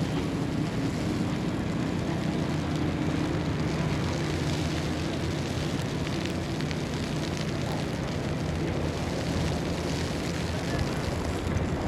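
Steady city ambience in a snowstorm: a low, even mechanical rumble and hum under a constant hiss.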